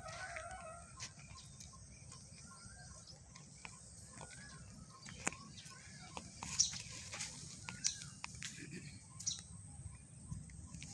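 Birds chirping faintly outdoors: short, wavering calls about once a second, with a few sharper high clicks in the second half.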